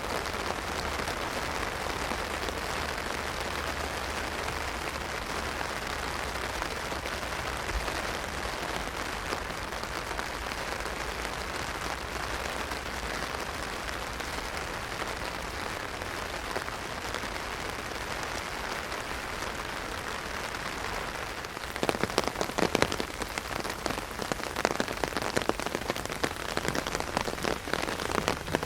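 Heavy rain drumming on an umbrella: a steady hiss of rain for most of the time, then about three-quarters of the way through it turns into a louder, uneven patter of big drops striking the canopy.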